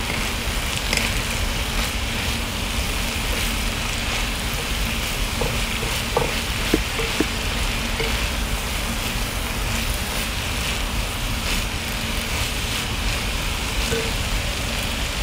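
Minced chicken, shrimp and onion sizzling in a hot wok as they are stirred with a wooden spatula: a steady frying hiss with a few light scrapes and taps of the spatula in the middle.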